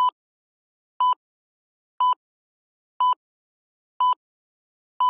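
Electronic countdown-timer beeps: six short, identical, steady-pitched beeps, one a second, with silence between them.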